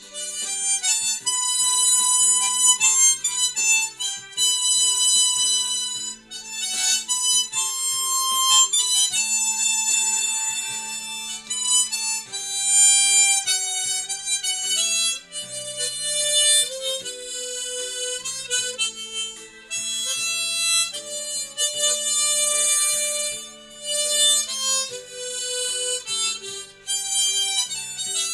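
G-key harmonica playing a slow, legato melody of held notes over a steady accompaniment of lower sustained chords.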